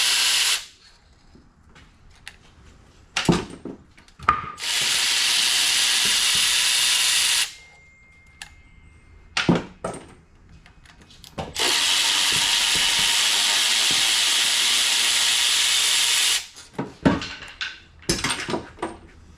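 Compressed-air hiss from a pneumatic tool in three long, steady bursts, each starting and stopping abruptly, with metal tool clanks and knocks in between.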